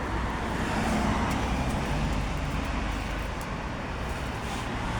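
Road traffic: a low rumble of a passing motor vehicle that swells about a second in and slowly fades.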